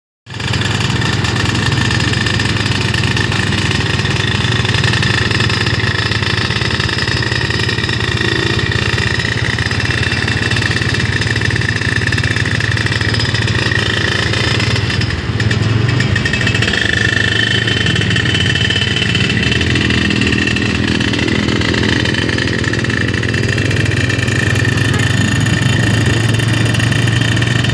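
Suzuki Satria 120 two-stroke motorcycle engine idling steadily with a deep, snoring-like exhaust rumble, dipping briefly about halfway through.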